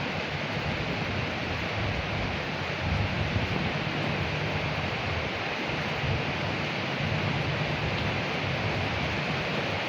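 Steady rain falling on leaves: a continuous, even hiss with a low rumble underneath.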